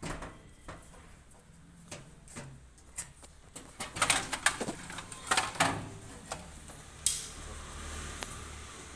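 Scattered clicks and light clatter of plastic wiring connectors and small parts being handled and unplugged inside a front-load washing machine. The clicks come thickest around the middle.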